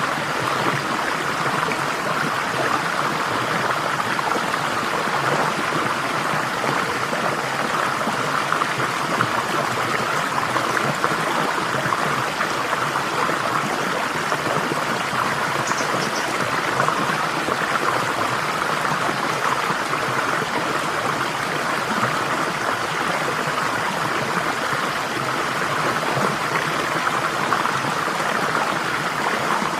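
Flowing water in a stream, a steady even rush and babble with no change.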